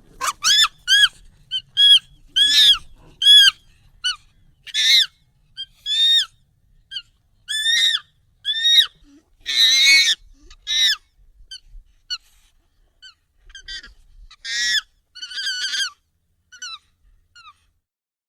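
Monkey calls, sped up and pitched up: a string of short, high, arching squeals, some longer and louder ones among them, with short gaps between.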